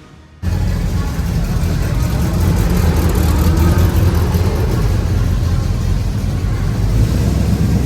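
A car engine running loud and close, with a low steady rumble that cuts in abruptly about half a second in.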